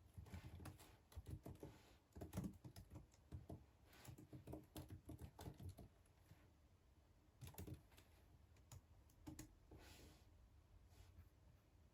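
Faint typing on a computer keyboard: irregular runs of keystroke clicks, busiest over the first half, then a few short bursts with pauses between.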